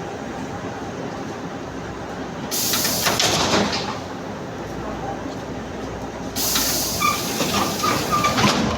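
Two loud, abrupt spells of compressed-air hiss from a suburban electric train, about a second and a half and two seconds long, over the low rumble of the train.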